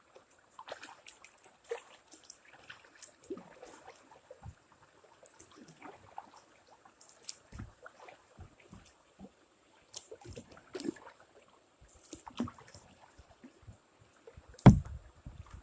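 Kayak paddling: water splashing and dripping off the paddle in irregular strokes, with small knocks on the hull. There is one loud thump against the kayak near the end.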